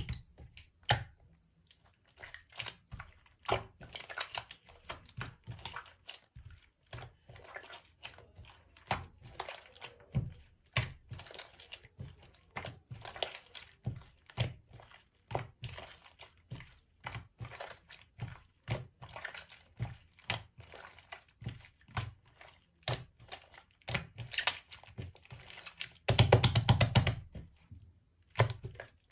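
Slime being kneaded and squeezed by hand as clay is mixed into it: a steady stream of irregular sticky pops and clicks, with a louder run of squishing near the end.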